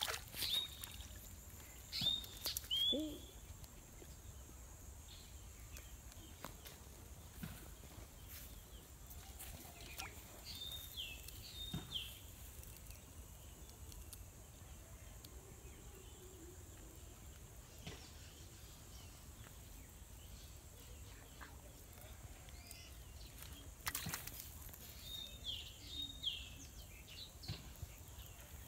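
Quiet outdoor ambience with a faint steady high hiss, broken by a bird calling in short groups of quick chirps three times: a few seconds in, about ten seconds in and near the end. A brief splash-like burst right at the start as the hooked fish is lifted from the water, and a few faint clicks and rustles.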